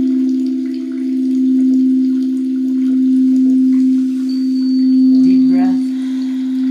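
Singing bowl ringing with one steady low tone that wavers in a slow pulsing beat. A brief voice sound cuts in about five seconds in.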